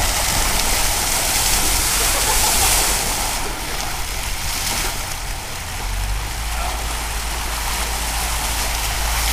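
Water fountain spraying: a steady hiss of falling water.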